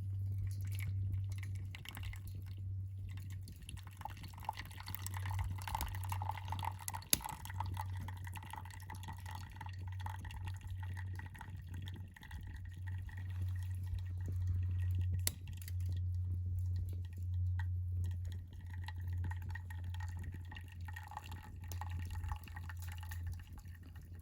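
Hot water poured from a copper kettle for coffee, in two slow pours with a pause between, over a steady low hum and a few sharp clicks.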